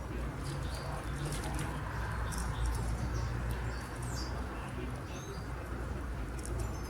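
Canary giving short, high chirps at irregular intervals, over a steady low hum.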